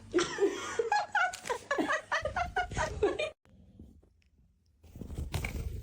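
Rapid giggling laughter, a string of quick high syllables for about three seconds, followed by a short pause and a rustling rumble near the end.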